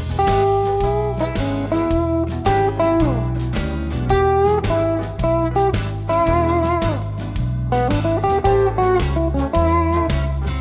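A 1989 Fender Telecaster electric guitar through a Vox AC10C1 tube amp plays a blues lead line of single notes with string bends, a slide down and vibrato. Under it runs a blues shuffle backing track with a bass line stepping about twice a second.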